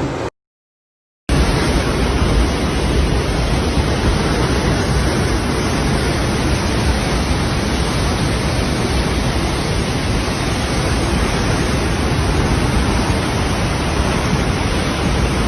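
Loud, steady rushing noise of the storm, with no tone or rhythm, starting after about a second of silence near the start.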